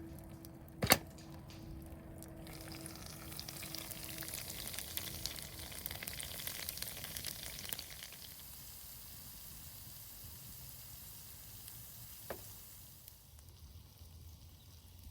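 Food sizzling in a hot pan over a campfire, with a sharp clack about a second in; the sizzle swells up about two and a half seconds in and dies down to a softer hiss after about eight seconds.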